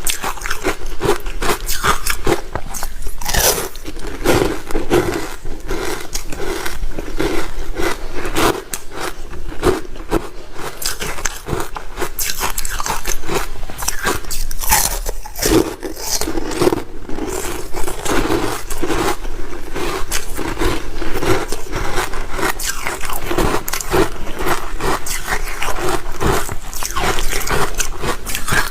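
Close-up crunching and chewing of ice, dense crackly bites one after another, with some scraping.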